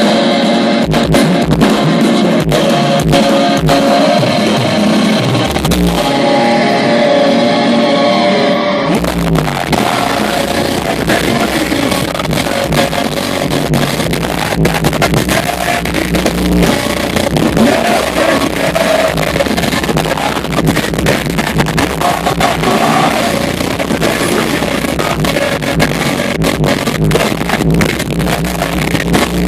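A metalcore band playing live and loud, with distorted electric guitars and a drum kit. About nine seconds in, the sound thickens into a heavier full-band section with strong bass.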